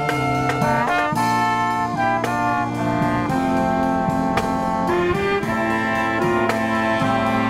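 Live marching brass band playing: trumpets, trombones and saxophones hold chords and move through a melody over a steady low brass bass line.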